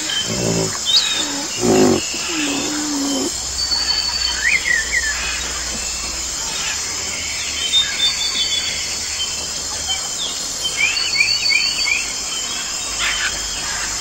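Deep animal calls repeated about once a second for the first three seconds, then outdoor ambience with birds chirping: scattered short rising chirps, including a quick run of four about eleven seconds in.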